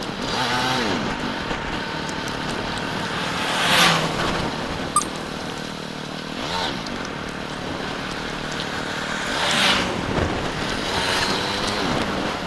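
Motorcycle engine running on the move, its revs rising and falling, under a haze of road and wind noise. The noise swells loudly twice, at about four and ten seconds in, and there is one sharp click about five seconds in.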